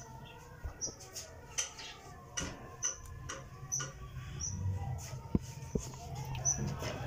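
A small bird chirping over and over, short high chirps about every half second, with a few light knocks and a low steady hum underneath.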